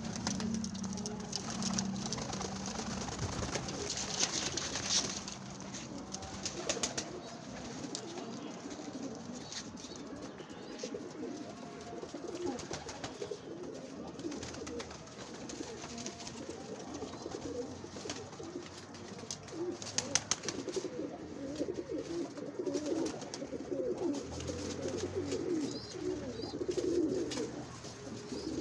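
Several domestic pigeons cooing together in a loft, a continuous low warbling coo, with scattered sharp clicks and rustles among it.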